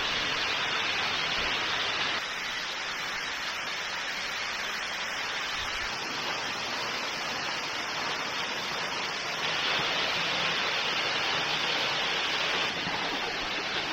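Steady rush of a waterfall, its level and tone shifting slightly about two seconds in and again near the end.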